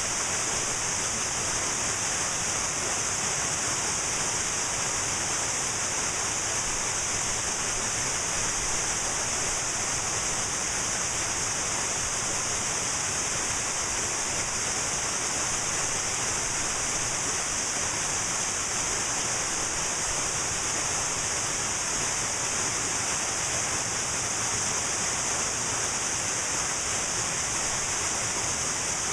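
Cascading mountain waterfall, a steady even rush of falling water with a bright hiss and no breaks.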